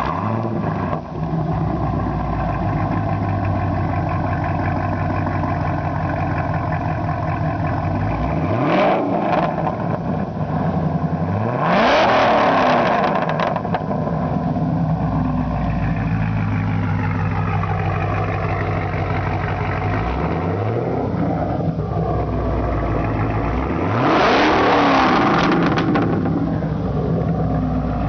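Supercharged 6.2 L V8 of a 2013 Chevrolet Camaro ZL1 with Stainless Works long-tube headers and a 3-inch chambered exhaust. It settles from a start-up flare into a loud idle and is revved four times: two quick blips and two longer revs, each held for a second or two before dropping back to idle.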